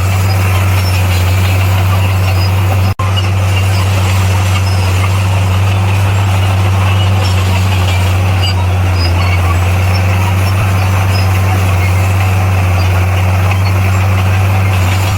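Bulldozer's diesel engine running steadily with a deep, even drone, broken by a momentary dropout about three seconds in.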